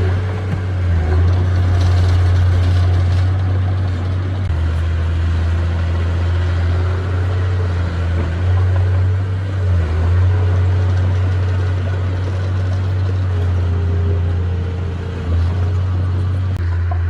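Heavy earthmoving machine's diesel engine running steadily with a deep, constant drone, its note shifting slightly a few times.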